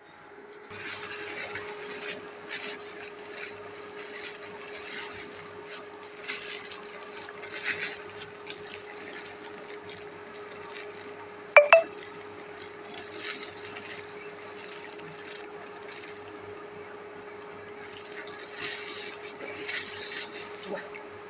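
Plastic bag rustling and crinkling in irregular bursts as it is handled, over a steady hum, with one sharp click about halfway through.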